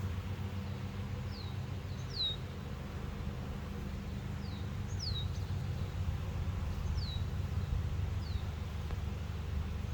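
A bird repeats a short, high, down-slurred chirp every second or two over a steady low hum.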